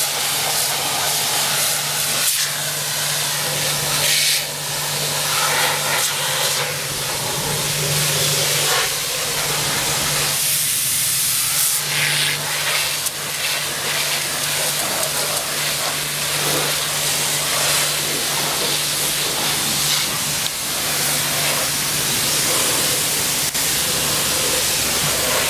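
Nilfisk electric pressure washer spraying a high-pressure water jet into a car's engine bay, a steady hiss of spray over the washer's steady low pump hum.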